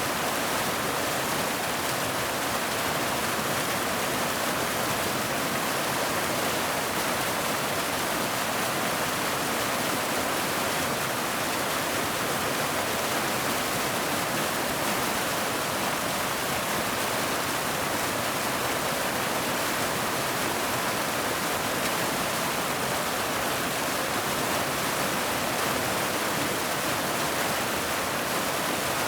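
Waterfall: steady rushing of falling water, an even hiss with no breaks or changes.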